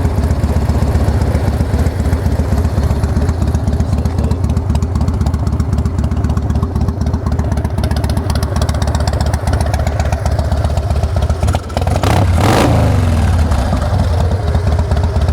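1999 Harley-Davidson Heritage Softail's Evolution V-twin, with a Mikuni carburettor and Vance & Hines exhausts, idling at a low speed. About twelve seconds in it gets one short throttle blip that rises and falls, then settles back to idle.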